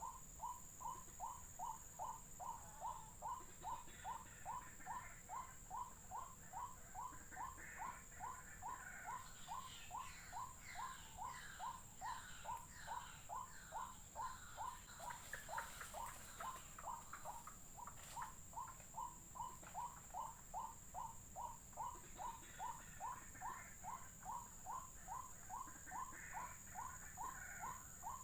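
White-breasted waterhen calling: one short, low note repeated monotonously, a little over two times a second, with fainter higher chattering calls over it now and then.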